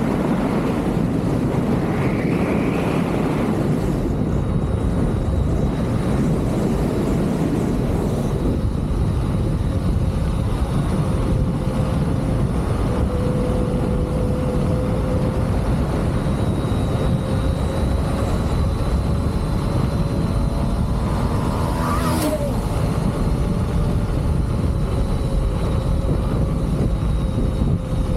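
Wind rushing over the microphone while riding a Leaperkim Lynx electric unicycle, a steady loud rumble. A faint steady whine comes in about halfway through, and a short sharp sound with a quick rise in pitch comes near the end.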